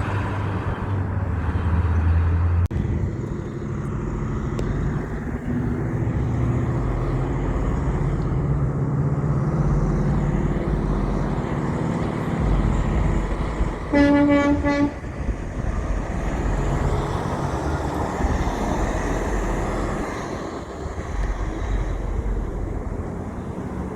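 Heavy trucks' engines running as they pass, the engine note rising over several seconds. About two-thirds of the way through, a truck horn sounds once for about a second.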